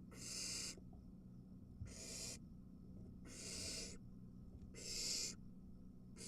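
Barn owl nestlings giving their hissing, snore-like begging calls: four rasping hisses, each under a second long, about one and a half seconds apart.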